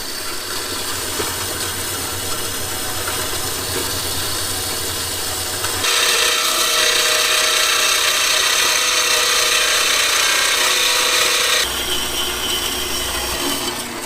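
Steady rasping noise of a tool working on metal. It turns louder and harsher about six seconds in, then eases back after about twelve seconds.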